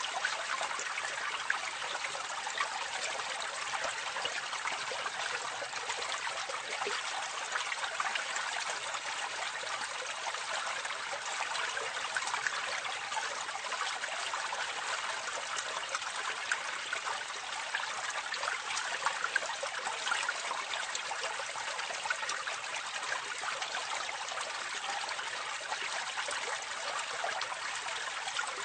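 Water running and splashing into a drain, heard close up: a steady, even rush of falling water speckled with small quick splashes.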